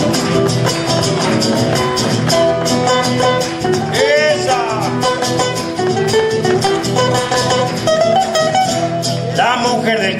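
Instrumental stretch of a chacarera: strummed guitar with steady hand clapping in time standing in for the bombo. A voice cuts in briefly about four seconds in and again near the end.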